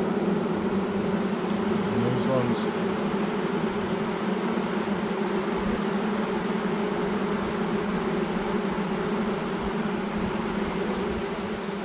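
A swarm of honeybees humming steadily, the massed buzz of many wings at once, as the swarm settles into a nuc box.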